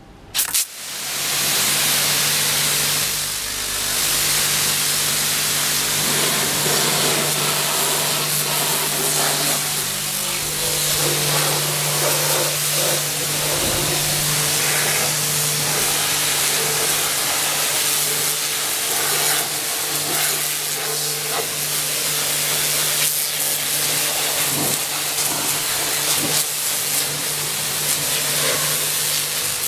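Nilfisk high-pressure washer spraying in a steady, loud hiss, with a steady hum underneath; the spray starts suddenly about half a second in.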